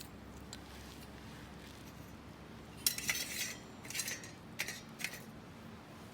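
Metal cookware and utensils clinking together several times in the second half, over a low steady background.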